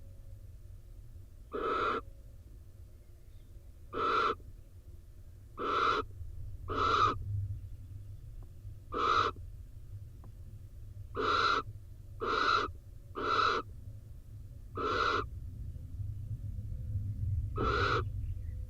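Barn owl giving harsh, hissing snore calls: about ten short calls, each about half a second long, spaced one to two and a half seconds apart. A low rumble runs underneath.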